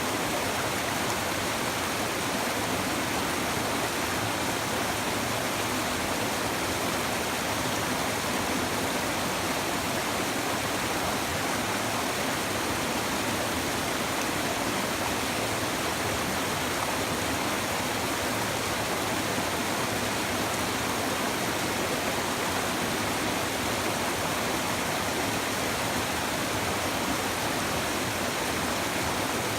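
A shallow river babbling steadily: a constant rush of flowing water over stones, without breaks or single splashes.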